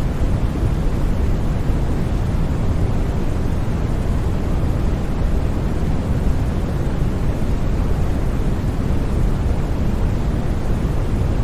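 Steady, unbroken white noise, an even hiss with most of its weight in the low end and no changes or events.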